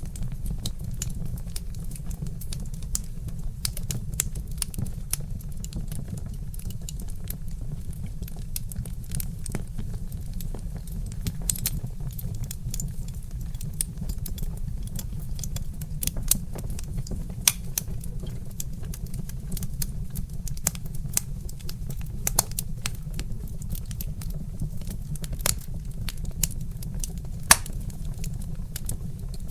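Wood fire crackling: a steady low rumble with many sharp pops and snaps scattered through it, a few louder pops standing out.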